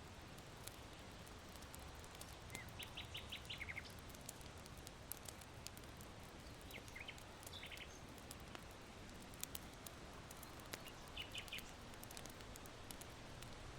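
Small birds chirping faintly in short runs of quick notes, three times, over scattered soft crackles of a charcoal hearth fire and a low, steady hiss of wind.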